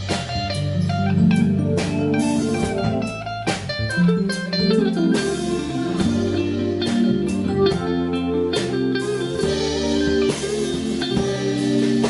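Live band playing an instrumental piece, a guitar carrying the melody over a drum kit with regular cymbal and drum strikes.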